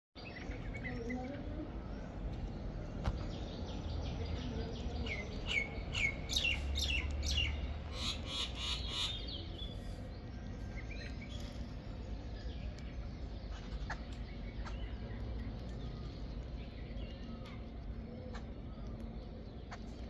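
Small birds chirping, with a run of quick repeated chirps about five seconds in and a faster burst of notes shortly after, then scattered faint chirps, over a low steady background rumble.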